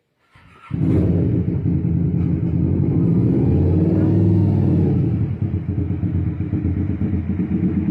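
2010 Kawasaki Ninja 250R's parallel-twin engine running, the sound coming in abruptly under a second in and staying steady, with a slight rise and fall in pitch around the middle.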